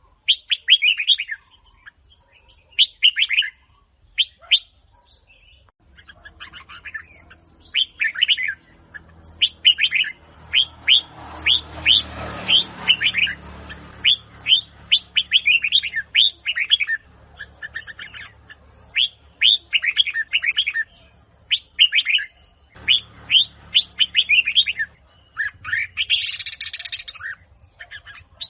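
Red-whiskered bulbul singing: short bursts of quick, chirpy warbled phrases repeated again and again with brief pauses between them.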